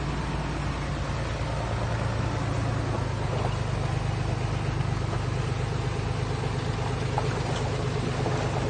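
Diesel engine of a heavy construction machine running steadily at a low, even hum, with a few faint clinks.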